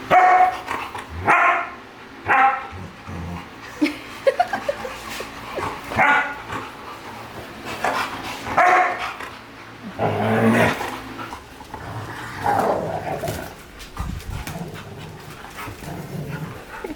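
A dog barking repeatedly, in single barks about one to two seconds apart.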